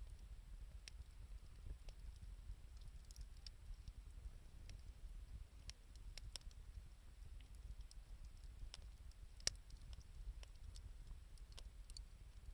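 Wood fire of scrap 2×4 lumber and scavenged wood crackling faintly, with scattered sharp pops and one louder pop about nine and a half seconds in, over a low rumble.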